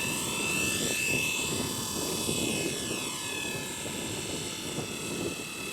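Blade 230 S V2 electric RC helicopter in flight: the motor and rotor blades give a steady high whine that bends slowly up and down in pitch as it flies around.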